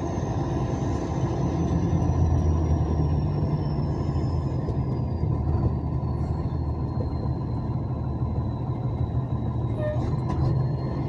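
Truck engine running steadily at low speed, a continuous low rumble heard from inside the cab. A faint high whine slowly falls in pitch and then rises slightly near the end.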